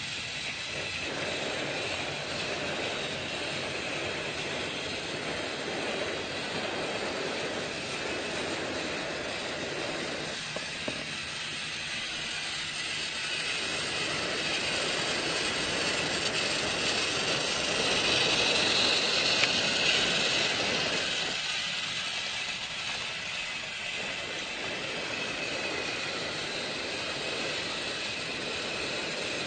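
A train running along the track: a steady rumble with a high whine, growing louder and brighter about two-thirds of the way through.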